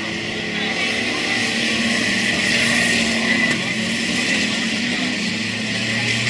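Speedway race car engines running on the track, blending into one steady, loud drone.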